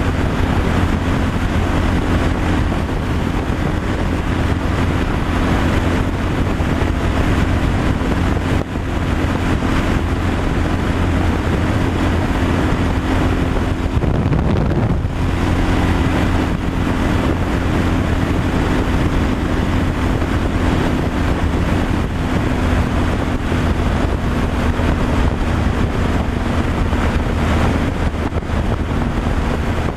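Truck engine running steadily under road and wind noise while driving. The engine note briefly dips and shifts about halfway through.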